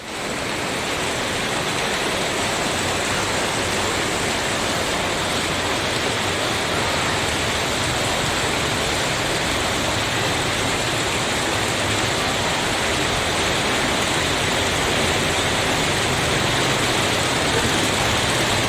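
Heavy tropical rain pouring down in a steady, dense hiss, rising in within the first moment and holding unchanged.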